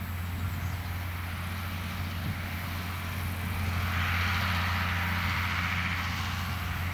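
International Harvester 1066 tractor's turbocharged six-cylinder diesel running at a steady pull while working a Hesston 560 round baler, with a hiss rising in about halfway through.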